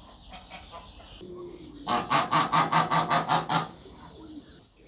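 Domestic geese honking: a few faint calls, then about two seconds in a loud rapid run of honks, about ten a second, lasting a second and a half.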